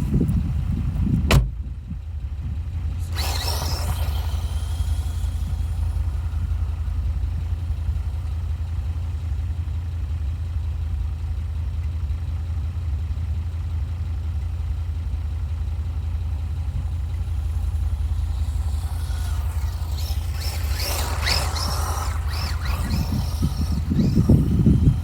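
Brushed electric motor of a 1/18-scale 4x4 RC mini truck whining in short, varying bursts, once about three seconds in and again from about 19 to 24 seconds, over a steady low rumble. A sharp click about a second in.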